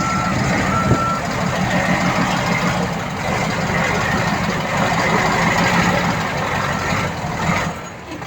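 Heavy earthmoving machine's reverse alarm beeping twice in the first second or so and once more about seven seconds in, over the steady running of its engine.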